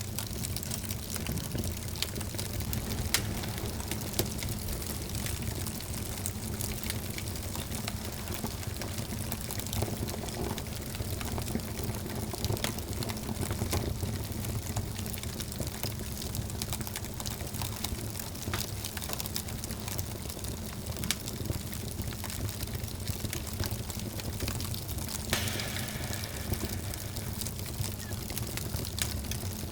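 Wood fire burning in a fireplace, crackling with scattered sharp pops over a steady hiss and low rumble. About 25 seconds in, a higher hiss joins.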